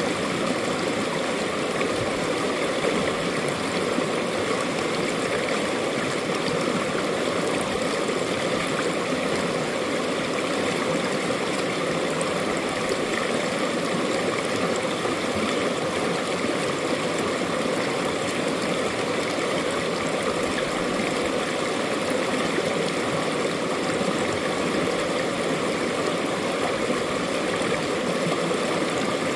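Mountain stream water flowing and rushing over rocks in a steady, unbroken stream.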